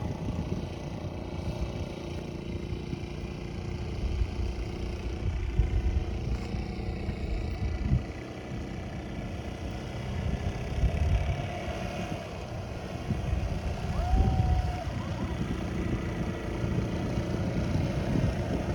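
Quad bike engine running steadily during a ride, with an uneven low rumble underneath.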